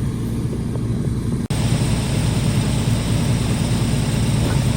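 A motor vehicle's engine running with a steady low hum. It breaks off abruptly about one and a half seconds in and comes back louder.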